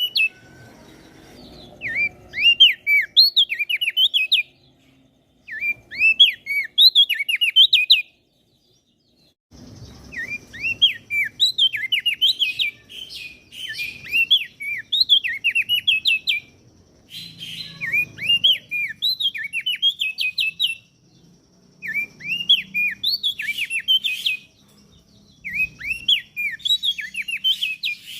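Crested white-eye (opior jambul) singing: fast bursts of sharp chirping notes that dip and hook in pitch, in phrases of a few seconds separated by short pauses.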